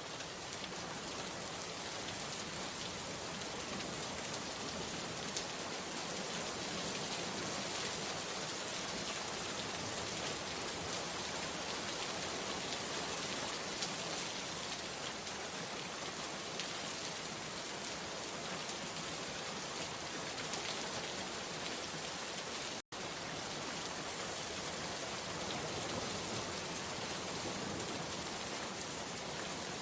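Steady rain falling, with scattered drop ticks. The sound cuts out for an instant about three-quarters of the way through.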